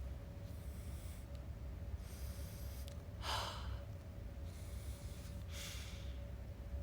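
About four separate sniffs through the nose, each well under a second, drawn through a yadom nasal inhaler by someone whose nose is blocked with a cold.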